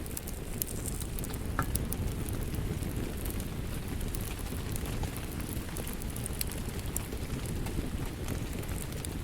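Steady rain noise mixed with a wood fire crackling: a constant low rumble of rain with scattered small pops and snaps from the fire.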